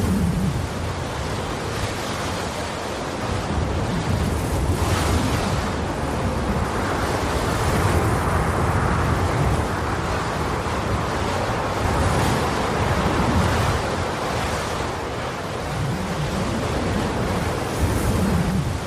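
Steady rushing wind buffeting the microphone, mixed with water noise, aboard a boat.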